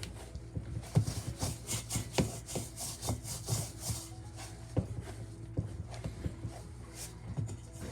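Hot-water flour dough being kneaded by hand in a pot: irregular soft knocks and rubbing strokes as the dough is pressed and folded.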